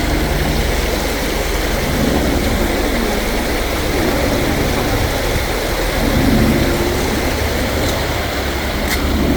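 Stream water rushing steadily over rocks and down small cascades into pools, a constant loud wash with a deep low rumble underneath.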